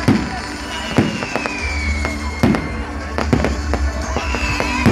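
Fireworks going off: sharp bangs about once a second, with two whistling fireworks whose high whistle slides slowly downward in pitch, the first starting just after the first second and the second near the end.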